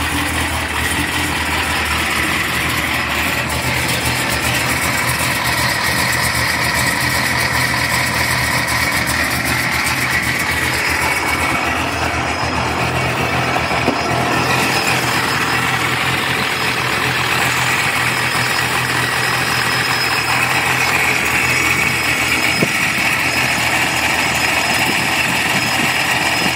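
Supercharged LS2-based 408 cubic-inch stroker V8 idling steadily, breathing through longtube headers and Magnaflow mufflers with the catalytic converters deleted.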